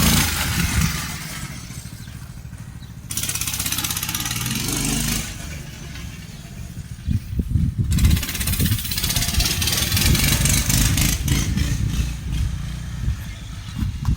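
Mini bike engine running while the bike is ridden, its sound swelling and dropping, with stretches of hissing noise over it.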